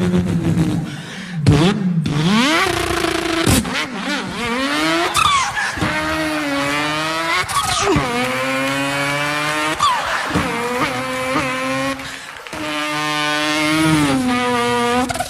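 A man imitating a car engine with his voice, revving up through the gears: the pitch climbs, drops at each shift and climbs again, over and over.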